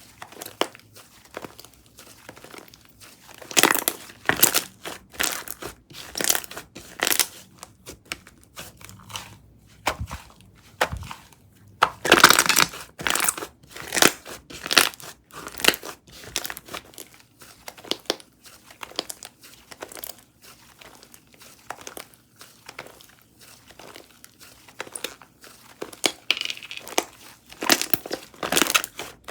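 Pistachio java chip frappe slime being squished and pressed by hand, making dense, irregular crackling and crunching pops that come in louder clusters.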